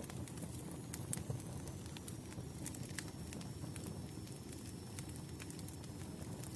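Wood campfire burning: a steady low rush of flame with irregular sharp crackles and pops from the burning logs, and a faint thin high whistle running through most of it.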